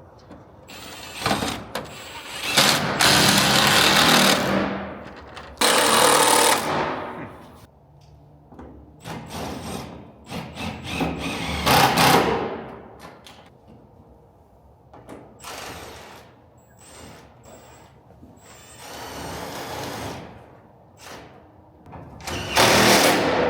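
A power tool run in short bursts of one to two seconds, several times over, with small clicks and knocks in between.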